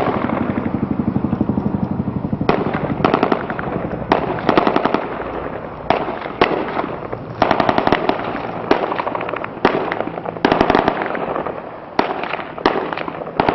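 Automatic machine-gun fire in repeated bursts, about a dozen of them, some short and some lasting about a second, with a dense unbroken string of shots at the start.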